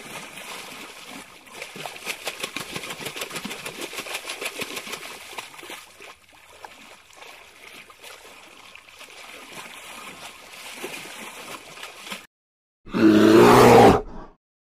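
About twelve seconds of steady outdoor rustling with a fast fine crackle. Then, after a brief gap, a loud, low, deep grunt from an American bison, lasting just over a second.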